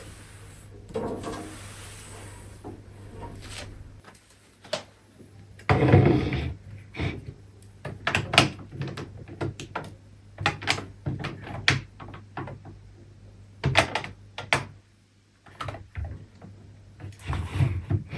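Household handling sounds: a run of sharp clicks and knocks, like things being set down and doors or drawers moved, with a heavier thump and rustle about six seconds in.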